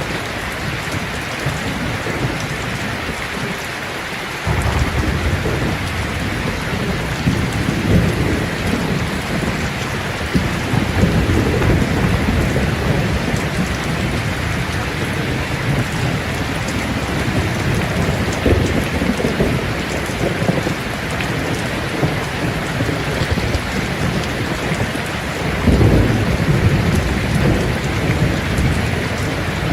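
Steady rain falling, with thunder rumbling low beneath it: one roll comes in suddenly about four seconds in, and a louder one comes near the end.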